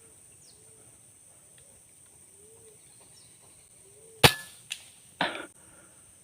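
A single sharp shot about four seconds in, typical of an air rifle used for bird hunting, followed by a lighter click and a short rustling burst about a second later. Underneath, a bird calls faintly about once a second over a steady high insect whine.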